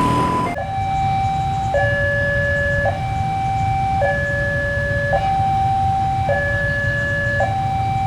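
Electronic two-tone warning siren alternating high-low, each tone held about a second, over a steady low rumble.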